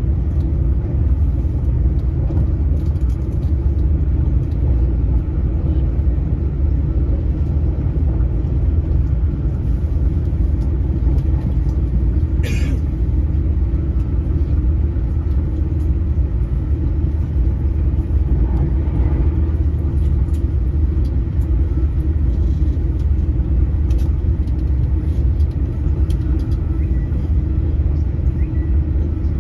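Steady low rumble of an Öresundståg electric train running along the track, heard from inside the passenger car. A single short sharp click sounds about twelve seconds in.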